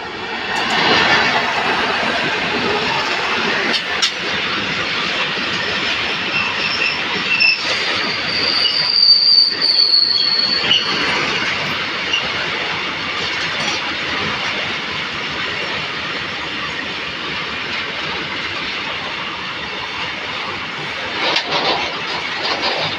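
A train running past on the rails: a steady rumble of wheels with high-pitched wheel squeal, loudest about nine to ten seconds in.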